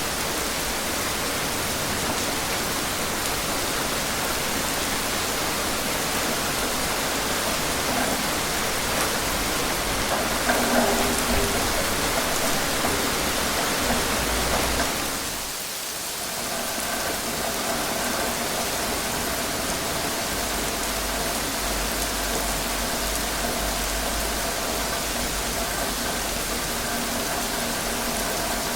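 Steady rain falling. The rain dips briefly about halfway, and a faint hum sits under it in the second half.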